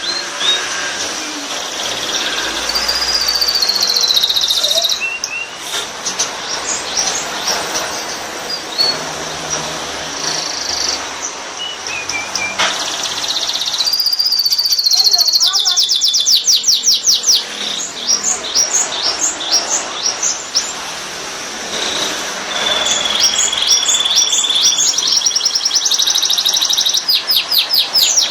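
Canary singing a long, varied song of fast trills of rapidly repeated notes, broken by smooth whistled slides that rise and fall.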